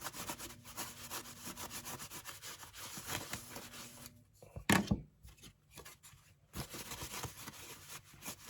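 A paper towel dampened with alcohol being rubbed briskly over a hardboard (HDF) sublimation blank, in quick wiping strokes, to clean it. There is one short louder knock about halfway through.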